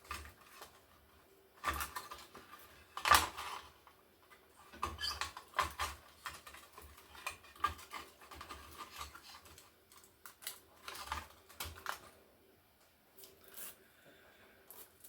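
Irregular clicks, taps and clatter of a Toshiba T4700CT laptop's plastic and metal parts being handled and taken apart by hand, with the loudest knock about three seconds in.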